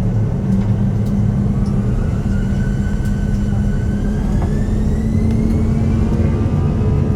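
Airbus A340 jet engines running with a loud, steady low rumble, while a faint whine rises slowly in pitch.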